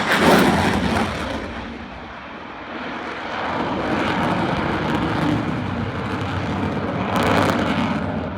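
F/A-18F Super Hornet's twin jet engines on a flypast: a loud noise that eases off about a second in, then builds again and stays loud, peaking about seven seconds in.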